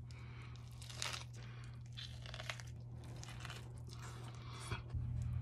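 Close-up sounds of a person biting into and chewing a sandwich, with a few short crunchy crackles over a low steady hum.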